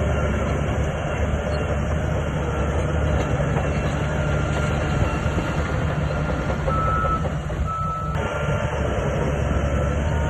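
Diesel engine of a SHANTUI DH17C2 crawler bulldozer running steadily under load, with clanking and squeaking of its steel tracks.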